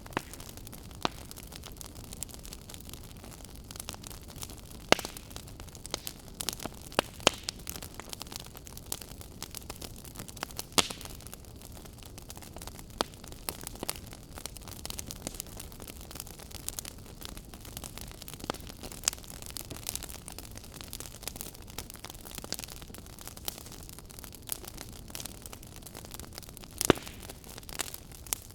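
Fire crackling: irregular sharp pops and snaps over a steady hiss, with a few louder pops scattered through.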